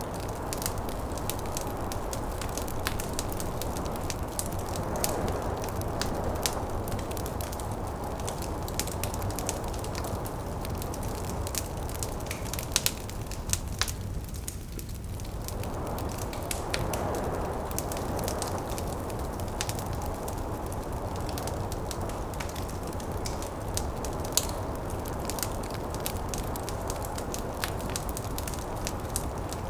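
Wood fire crackling and popping in a fireplace, with a steady low rumble and a snowstorm wind whooshing behind it, swelling and fading and dropping away briefly about halfway through.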